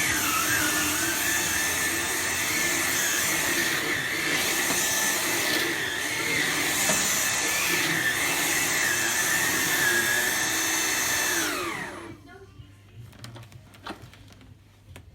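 Vax Blade 4 cordless stick vacuum running with a steady high whine that wavers in pitch as it is pushed about. About twelve seconds in it is switched off and the motor winds down, falling in pitch, leaving only a few faint clicks and knocks.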